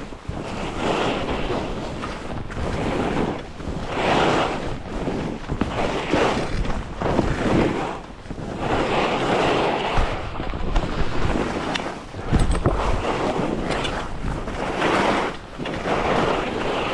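Wind rushing over the microphone while skiing downhill, with skis hissing and scraping over the snow. The noise swells and fades about once every second or so.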